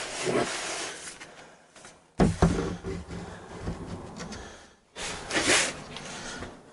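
Particle board subfloor panel being worked into place: scraping and knocking of the board, with two sudden louder knocks, about two seconds in and about five seconds in, each fading off.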